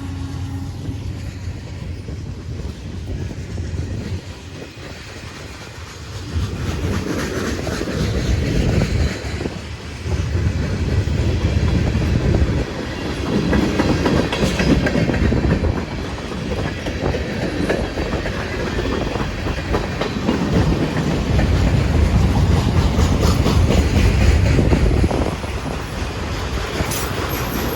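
CSX freight train rolling slowly past. The cars' steel wheels clack over the rail joints in a continuous rumble that grows louder a few seconds in.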